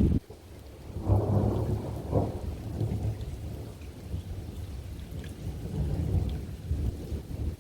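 Thunder rumbling from a thunderstorm, with swells about a second in and again about two seconds in, over rain.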